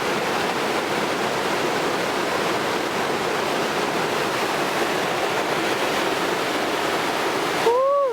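Steady rush of fast whitewater river below, an even noise with no breaks. Near the end a short pitched sound rises and falls in pitch.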